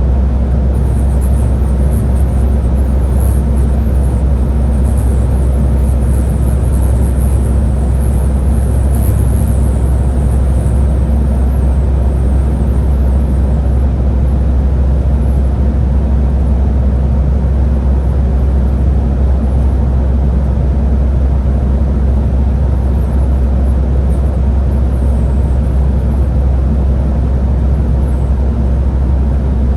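Scania Higer A30 13-metre bus running along the road: a steady, loud low rumble of engine and road noise.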